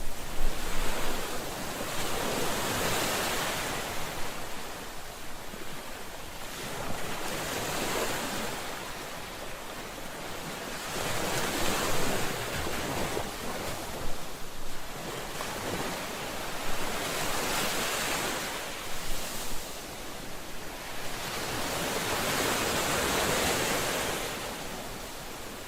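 Ocean waves breaking and washing ashore: a steady rush of surf that swells and ebbs in surges every few seconds.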